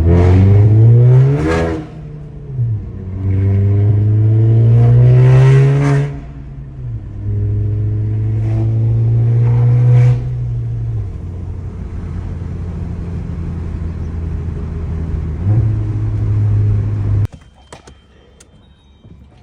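Loud Volkswagen Jetta GLI (MK7) 2.0-litre turbocharged four-cylinder engine, breathing through a catless downpipe with the resonator and muffler deleted. It is revved three times, each pull rising in pitch and falling back, then settles to a steady idle with one short blip. The sound stops abruptly near the end.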